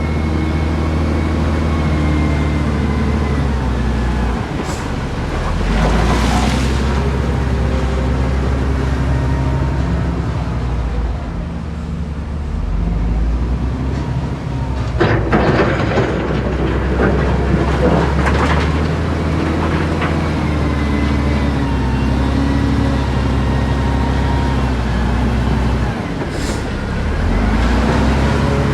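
Heavy diesel earthmoving machinery running, its engine pitch shifting as it works, with bursts of metallic clanking and rattling about six seconds in and again around the middle.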